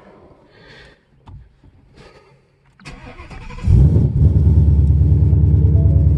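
2016 Mustang GT's 5.0 V8, breathing through Kooks catless longtube headers and an MBRP Race catback, cranking and firing about three and a half seconds in, then settling into a steady, deep idle. This is the first start on a freshly flashed Lund cam tune.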